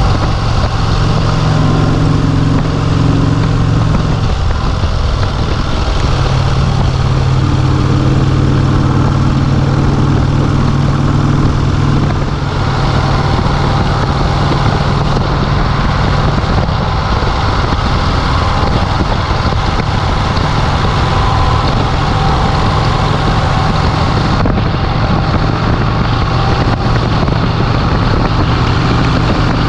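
1951 Vincent Rapide's 998 cc V-twin engine running under way with steady wind rush, its note changing pitch a few times, around four and twelve seconds in.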